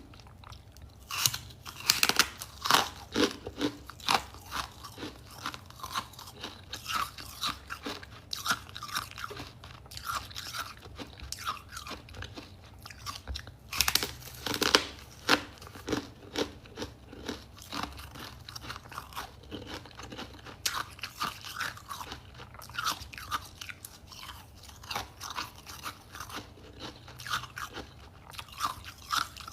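A person biting and chewing crunchy ice close to the microphone: a continuous run of crisp crunches, with the loudest bites about two seconds in and again around the middle.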